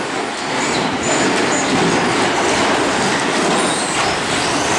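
A pack of radio-controlled short course trucks racing on the track: a dense, steady clatter of tyres, suspension and chassis with the motors running, and faint high whines coming and going.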